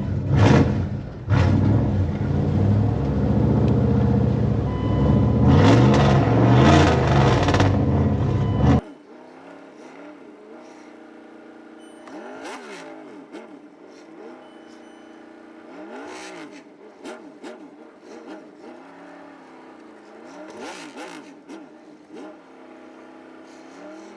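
Truck engine running and revving up close. About nine seconds in the sound cuts abruptly to a fainter, thinner engine sound that revs up and down several times.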